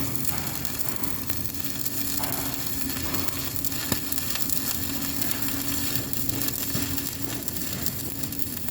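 Electric arc welding: the arc crackling and sizzling steadily, with a steady low hum beneath and a single sharp click about four seconds in.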